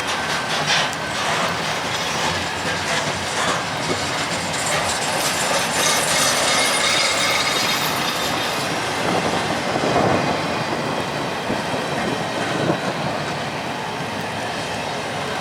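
Freight train cars rolling past on the rails, the wheels clattering steadily over the track.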